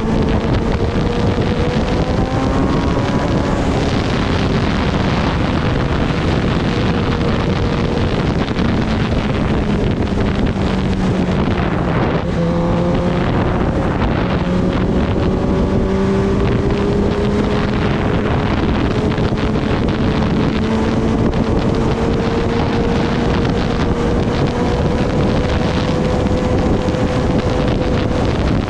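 Kawasaki Ninja ZX-10R inline-four engine running under way, buried in heavy wind noise on the microphone. The engine note drops suddenly about twelve seconds in, then climbs slowly and steadily.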